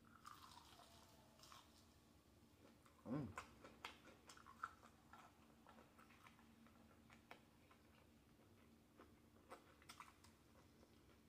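Faint close-up chewing of battered fried shrimp, with soft crunches and scattered wet mouth clicks and smacks. A short low hum comes about three seconds in.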